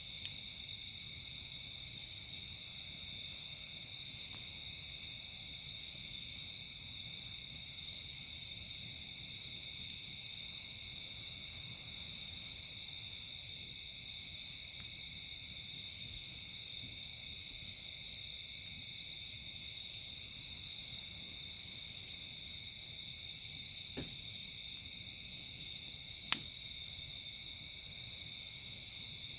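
Steady chorus of insects such as crickets, with higher pulsing chirps every few seconds. A campfire pops sharply twice near the end, the second pop louder.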